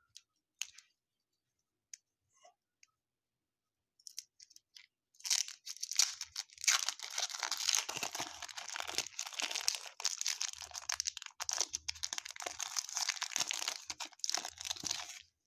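Baseball card pack wrapper being torn open and crumpled by hand. A few faint ticks, then about five seconds in a long run of loud crackling and tearing that lasts some ten seconds and stops just before the end.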